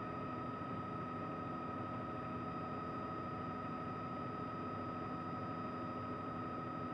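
Helicopter in flight: a steady drone with a constant high whine running through it, unchanging throughout.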